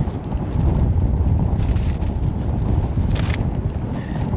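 Strong wind buffeting the microphone, a dense low rumble throughout, with a brief sharper hiss about three seconds in.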